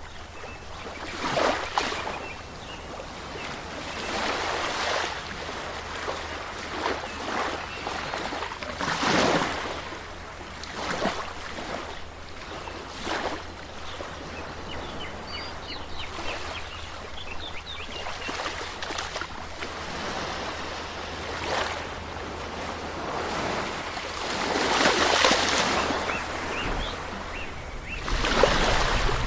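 Waves washing onto a shore, with swells of louder surf breaking every few seconds over a steady wash. A few faint high chirps come in the middle.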